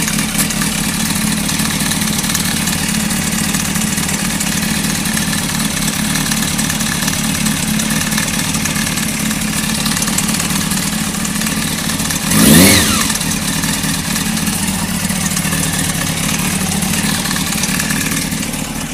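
Honda CBR600F3's inline-four engine idling with a rattle, with one quick throttle blip about two-thirds of the way through where the pitch rises and falls. The owner wonders whether the rattle comes from the cam chain tensioner.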